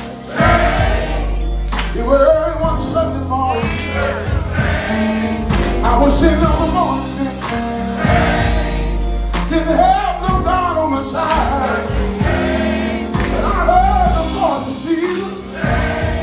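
Gospel music: a choir singing over a band with a steady bass line.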